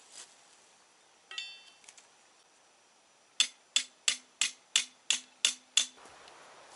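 A hammer striking metal eight times at an even pace, about three blows a second, each blow ringing briefly. A single metallic clink comes a couple of seconds before the blows.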